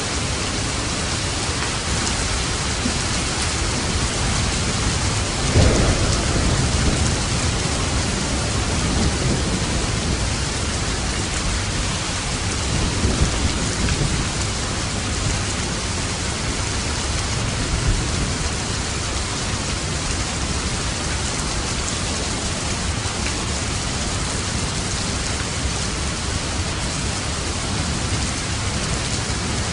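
Steady rain drumming on a roof, with thunder: a sudden clap about five and a half seconds in that trails into a low rumble, and fainter rumbles later.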